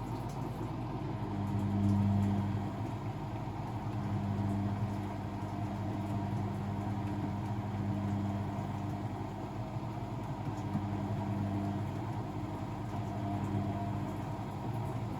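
Blomberg WAF 7442 SL washing machine running, its drum motor giving a steady low hum that swells every two to three seconds as it turns the drum.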